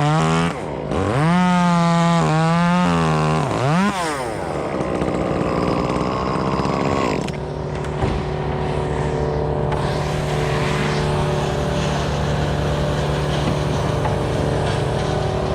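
Two-stroke chainsaw revved to full throttle twice in the first few seconds, its pitch climbing, holding and dropping back, with a shorter blip about four seconds in. From about seven seconds in it runs at a steady, lower pitch.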